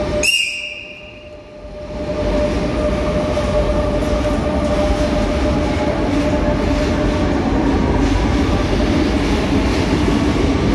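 A short high-pitched beep just after the start. After a brief dip, the steady rumble and hum of a Rodalies de Catalunya electric commuter train rolling along an underground platform.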